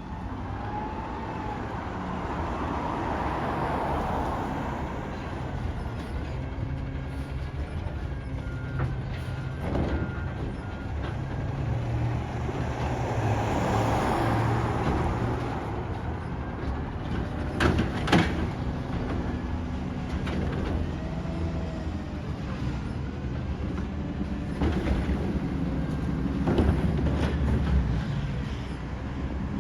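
Garbage truck running, its engine rising and falling in speed as it works, with swells of hiss and a couple of sharp metal clanks just past the middle.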